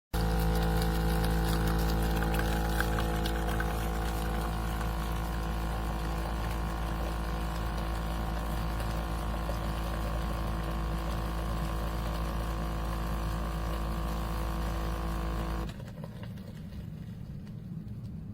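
Automatic espresso machine's pump running with a steady hum while it dispenses. It cuts off abruptly about three-quarters of the way through, leaving a quieter background.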